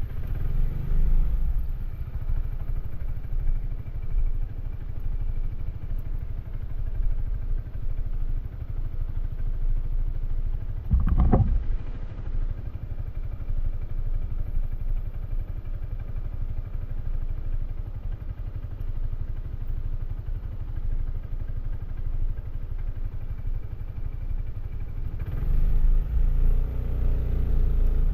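Suzuki Burgman AN400 maxi-scooter's single-cylinder engine running on its stock exhaust while riding, with steady road and wind noise. A short loud noise comes about eleven seconds in, and the engine gets louder near the end as the scooter pulls away harder.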